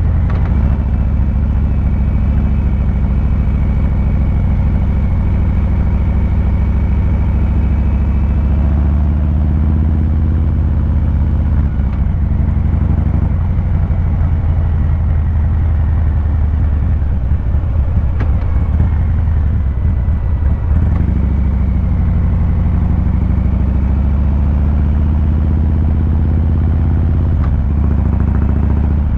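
2023 Harley-Davidson Fat Boy 114's Milwaukee-Eight V-twin engine and exhaust running steadily while riding, the engine note dipping and rising a couple of times.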